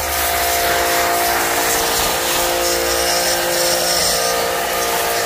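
WAP 5100 Turbo electric pressure washer running steadily: a constant motor-and-pump drone under the hiss of the spray as it shoots detergent through a snow foam lance.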